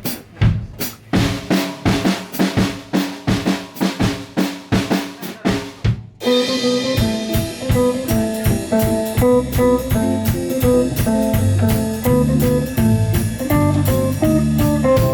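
Live pop-jazz band music: a drum kit plays a rhythmic intro alone for about six seconds, then the rest of the band comes in with bass and pitched instruments over the drums.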